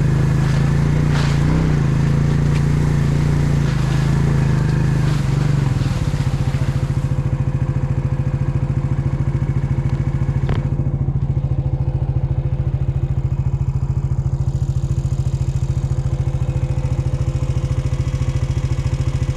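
ATV engine running, at first under way with some clatter, then about six seconds in settling to a steady, even idle.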